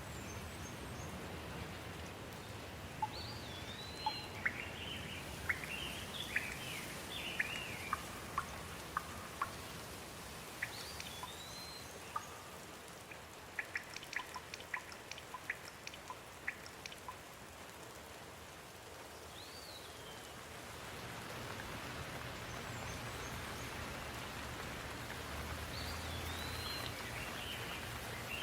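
Steady rain falling, with birds chirping over it in several short runs of quick, rising-and-falling calls.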